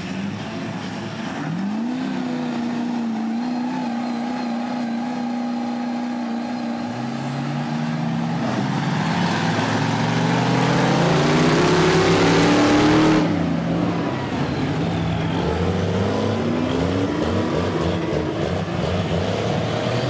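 Big lifted trucks in a truck tug-of-war, engines revving hard under load with more than one engine pitch climbing together and a rushing noise that builds, then cuts off suddenly about thirteen seconds in; engines keep running afterwards.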